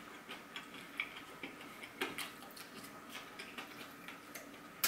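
Mouth chewing a steamed bun: scattered soft wet clicks and smacks at an uneven pace, with a sharper click near the end.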